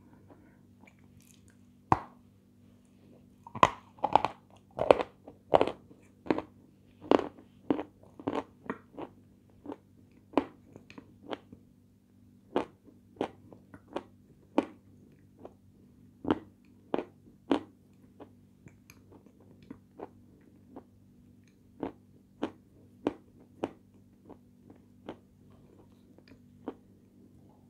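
Close-up crunching and chewing of crisp meringue-type sweets: sharp, irregular crunches, loudest and quickest a few seconds in, then slower and fainter.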